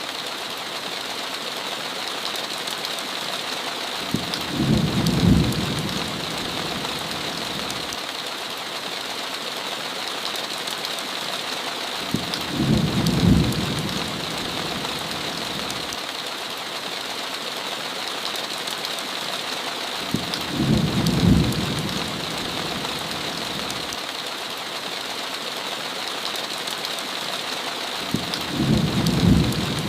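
Steady heavy rain on a window, with low rumbles of thunder that swell and fade four times, about eight seconds apart.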